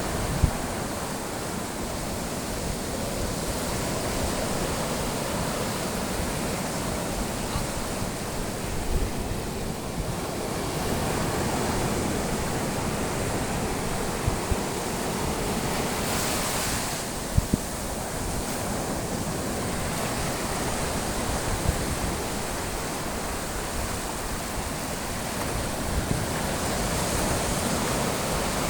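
Sea waves washing in and out steadily, swelling and easing every few seconds, with wind buffeting the microphone and a few brief knocks.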